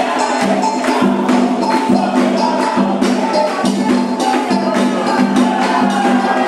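Candomblé ritual music: voices singing a chant over a dense rhythm of shaken and struck percussion.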